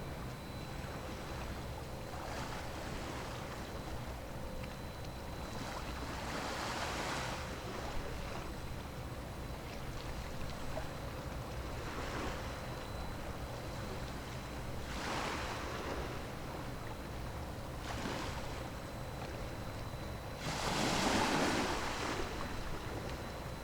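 Waves washing in every few seconds over a steady low rumble of ship engines, with the loudest wave breaking near the end.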